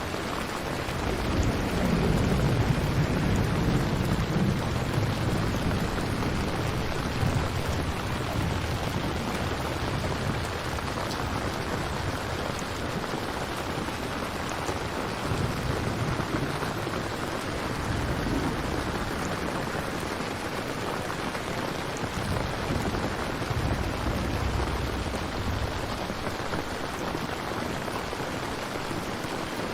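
Steady rain ambience with low rolls of distant thunder, the strongest swelling in about a second in and further rumbles later on.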